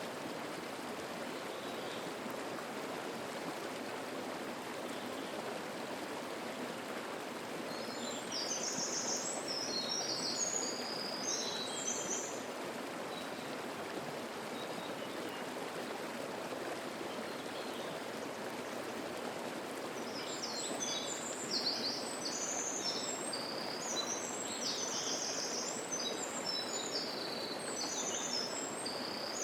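Steady rush of water in a mountain stream, with a songbird singing quick high notes for a few seconds about 8 s in, and again from about 20 s on.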